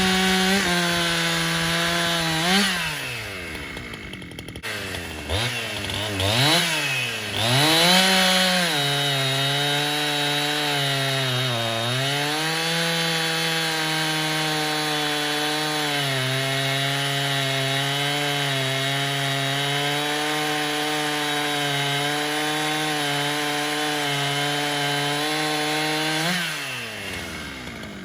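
Husqvarna 372XP two-stroke chainsaw with a modified muffler running at high revs. The revs dip and blip a few times, then it holds a steady high pitch under load, most likely in a cut, with one brief bog partway through. Near the end the engine winds down and stops.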